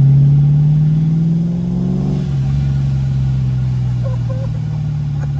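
Vortech-supercharged V8 of a Fox-body Ford under way, heard from inside the car: the engine note rises for about two seconds as it accelerates, drops suddenly as the throttle comes off, then runs steadily at a lower pitch. Sounds pretty menacing.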